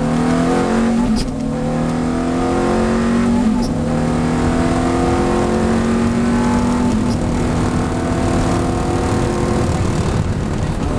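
Ferrari F430's V8 at full throttle, climbing in pitch through the gears with three quick upshifts, about one, three and a half and seven seconds in, then easing off near the end. Heard from inside the cabin.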